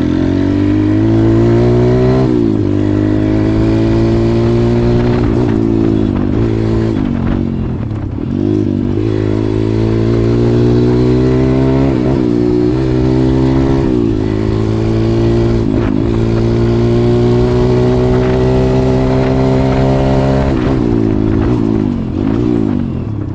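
140cc pit bike engine under way, with the pitch climbing steadily for several seconds at a time and dipping sharply and briefly about half a dozen times. There are several quick dips close together near the end.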